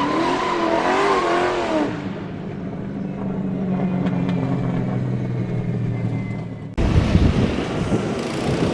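A car engine revving, its pitch wavering up and down for about two seconds, then running steadily at idle. Near the end the sound cuts abruptly to a louder, rougher engine noise.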